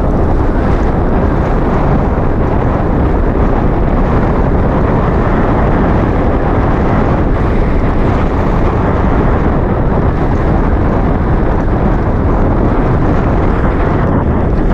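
Steady wind rush buffeting a GoPro's microphone while cycling along the road, loud and even throughout.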